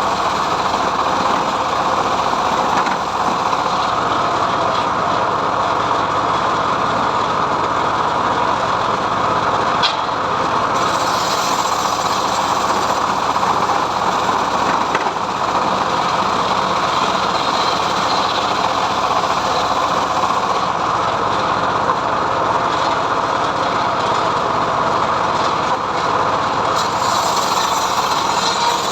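Homemade log sawmill running steadily, its engine-driven saw ripping a mahogany log. A brighter hiss joins the machine noise twice, about ten seconds in and again near the end.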